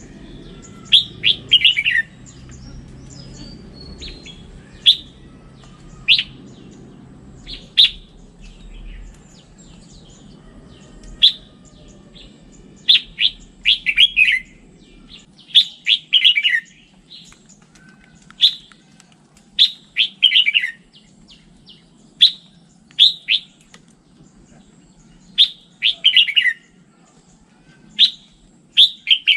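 Red-whiskered bulbul singing: short, bright whistled phrases repeated every one to three seconds, several of them sliding down in pitch at the end.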